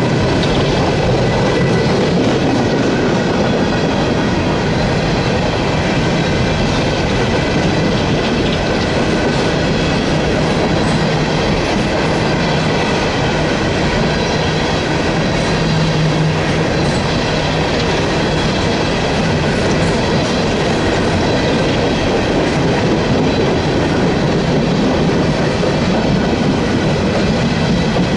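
Empty steel coal hopper cars rolling past close by: a loud, steady rumble and clickety-clack of freight-car wheels on the rails, with steady high-pitched tones riding above it.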